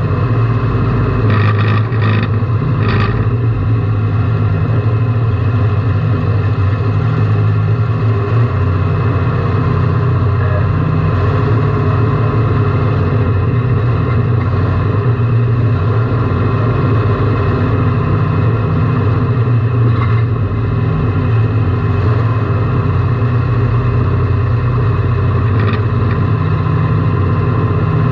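Car engine running loudly at a steady pitch, heard from inside the cabin, with a few sharp knocks about two seconds in and a couple more later on.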